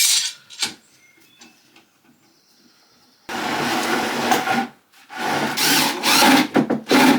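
A power tool working on wood in two loud bursts, each about one and a half to two seconds long, after a few brief knocks and a quiet pause.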